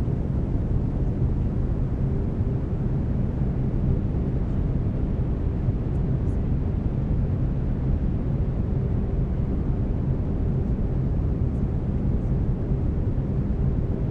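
Steady brown noise: an even, deep hiss, heaviest in the low end, with faint steady low tones from the binaural-beat track running beneath it.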